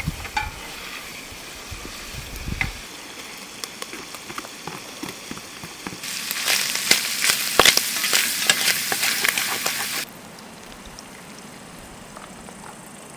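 Food sizzling and crackling in a hot frying pan, with a dense run of spitting crackles. It gets much louder about six seconds in and drops back abruptly about four seconds later.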